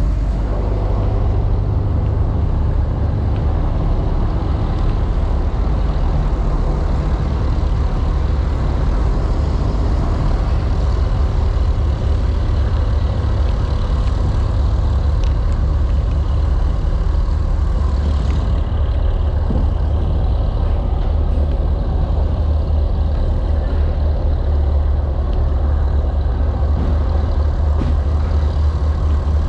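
Fishing boat's diesel engine running steadily under way, a loud, even low drone with no change in pace.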